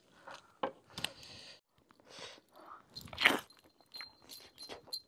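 A man chewing and biting into mutton curry with rice eaten by hand: scattered soft crunches and wet mouth clicks, loudest a little past three seconds in.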